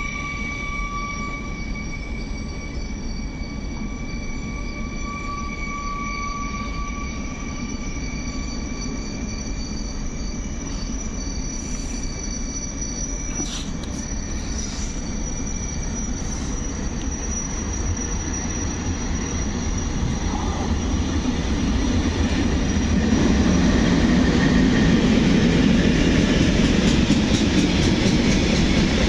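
Electric train at a railway station: a set of steady high-pitched tones like a wheel or motor whine fades away over the first half. From about two-thirds of the way in, the rumble of a train grows steadily louder and stays loud to the end.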